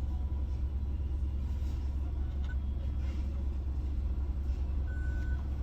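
Steady low rumble of a car idling, heard from inside the cabin while it waits at the drive-thru window. A short beep sounds about five seconds in.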